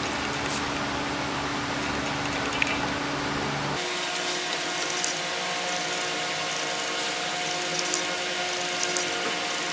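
Electric shop machine running steadily with a steady hum. Its tone changes abruptly about four seconds in, and a few faint ticks come through later.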